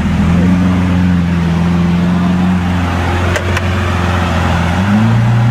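A car engine running with a steady pitch that steps up near the end. Two brief sharp clicks come about three and a half seconds in.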